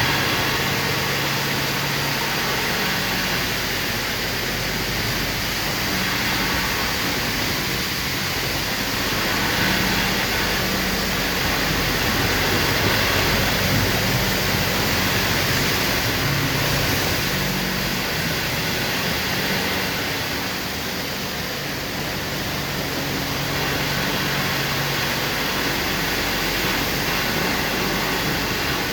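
Southern Pride Turbo automatic car wash running: a steady rushing noise of spray or air, with a low machinery hum that swells and eases over the passing seconds.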